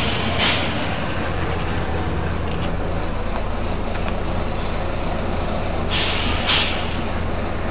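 Volvo B9TL double-decker bus's diesel engine running steadily, with short sharp air hisses from its compressed-air system: one about half a second in, then two close together around six seconds in.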